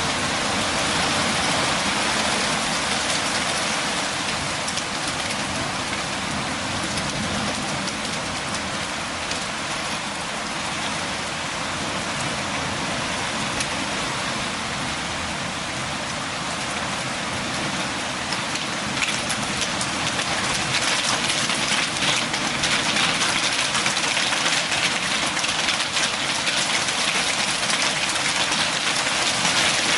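Steady rain falling as an even, dense hiss of drops on a surface, growing somewhat heavier about two-thirds of the way in.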